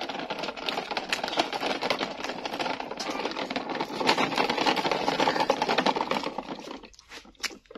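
Plastic toy dump truck rattling in a dense, rapid clatter that cuts off about seven seconds in.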